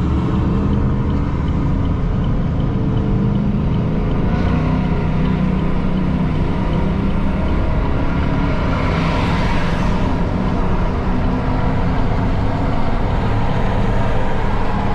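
A vehicle driving, with a steady engine and road rumble. A rushing swell comes about nine to ten seconds in.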